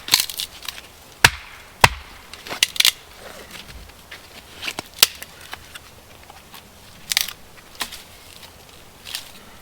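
Firewood being split and broken up: irregular sharp cracks and knocks of wood. The loudest come about a second and two seconds in, the second with a dull thud.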